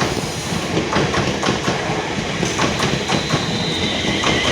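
Class 350 Desiro electric multiple unit running through the station, its wheels clicking over rail joints again and again. A high, slightly falling whine sets in near the end.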